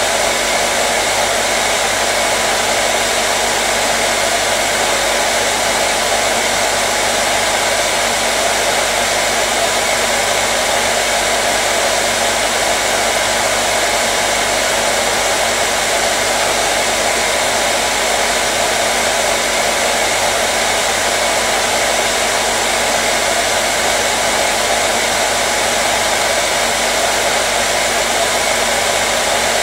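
Hair dryer running steadily: a constant rushing blow of air with a faint motor hum, unchanging in level and pitch.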